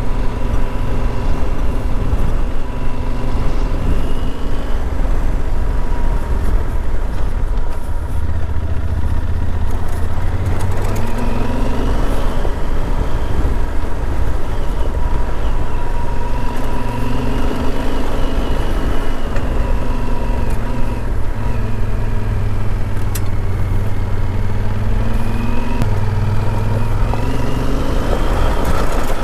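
Yamaha Super Ténéré motorcycle's parallel-twin engine running under way, its note rising and falling several times with throttle and speed over a constant low rumble.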